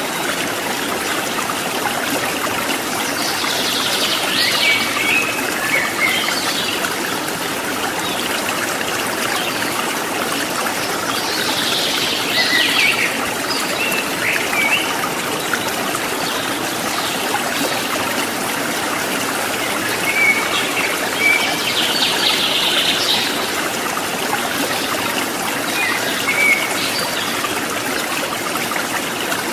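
Water in a stream trickling and babbling steadily, with wild birds chirping in short bursts four times.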